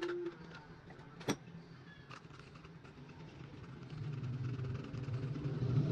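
A motor vehicle engine running with a low hum that grows louder from about four seconds in, after a couple of sharp clicks near the start.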